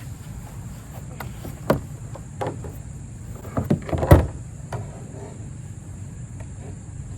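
Scattered knocks and thumps on a plastic fishing kayak's hull and gear, heard over a steady low rumble of wind and water. The knocks come a few at a time, with the loudest cluster a little after the middle.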